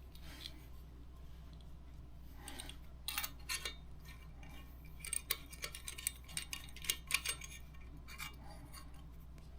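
Light metallic clicks and clinks of small metal fitting parts being handled, in two clusters, the second longer, as a compression joint is put together.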